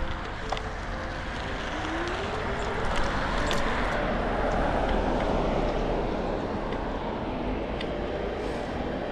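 Road traffic: a car passing, its engine and tyre noise swelling to a peak about halfway through and then fading.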